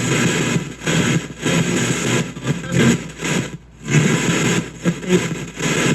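Spirit box sweeping through radio stations, heard through a shop radio after an ANC noise reducer: choppy static and snatches of broadcast sound, chopped every fraction of a second.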